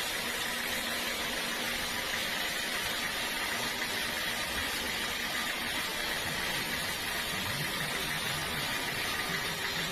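Sawmill machinery running steadily: a constant whirring hiss with a steady high whine through it and no breaks.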